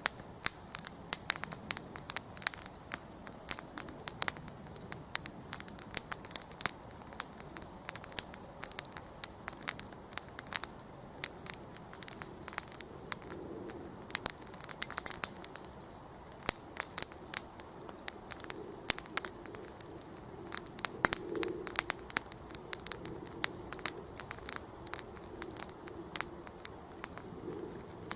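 Wood campfire crackling: irregular sharp pops and snaps, several a second, over a faint steady background.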